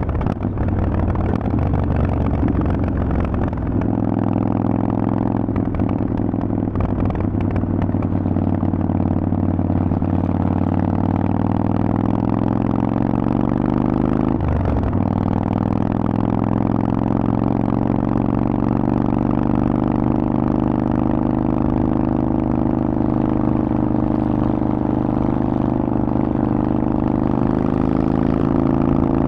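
Harley-Davidson Forty-Eight's air-cooled 1200 cc V-twin running through a Vance & Hines aftermarket exhaust under way. The engine note shifts about four seconds in and dips briefly about fourteen seconds in, then climbs slowly as the bike accelerates.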